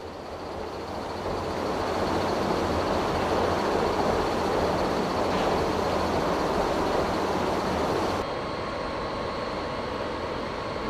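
A train running past, its rail and running noise swelling over the first two seconds and holding steady. It cuts off abruptly about eight seconds in, giving way to a quieter steady rumble.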